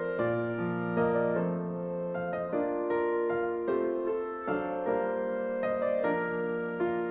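Soft background piano music, a slow melody of gentle notes.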